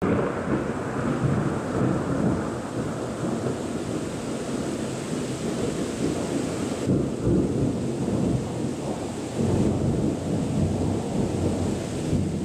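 Thunderstorm sound effect: continuous rolling thunder rumble over steady rain. It starts abruptly and swells several times.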